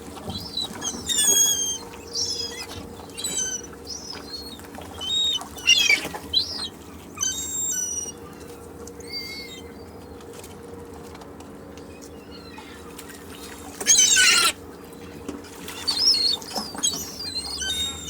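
Seagulls calling over beach ambience: bursts of short, bending cries, thick in the first half, a calmer stretch in the middle, then a loud harsh burst and more cries near the end.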